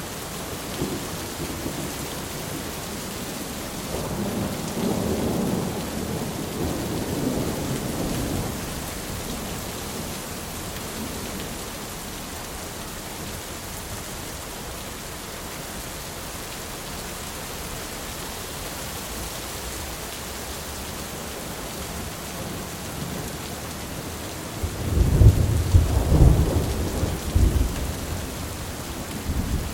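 Thunderstorm: steady rain, with a roll of thunder about four seconds in that lasts a few seconds, and a louder, deeper peal of thunder near the end.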